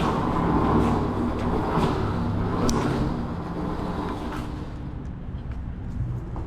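Mini bike riding past with a steady hum and road noise, fading away over the second half.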